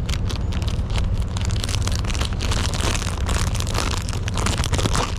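Packaging crinkling and crackling in the hands as a wrapped sandwich is opened, over a steady low rumble.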